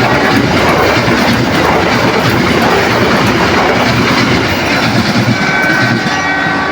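A train passing close by, loud and steady, with the rumble and clatter of wheels on the rails. A few steady high tones join in near the end.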